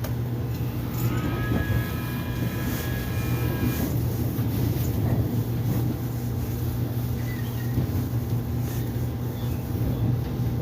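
Korean subway train running with a steady low rumble. A high whine with several pitches sounds from about one to four seconds in.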